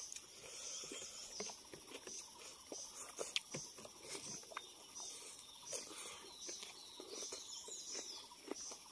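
Faint close-up eating sounds through a clip-on lapel microphone: chewing and lip smacks as pork is eaten by hand, a scatter of small irregular clicks and smacks. Behind them runs a steady, high-pitched pulsing insect chorus.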